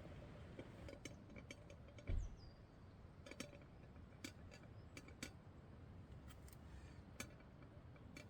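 Faint scattered clicks and light knocks, with one dull thump about two seconds in, over a quiet low background.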